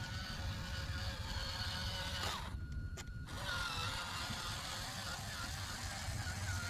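Kubota tractor engine running steadily, with a thin, wavering high whine over its low rumble; the high sounds drop out briefly about two and a half seconds in.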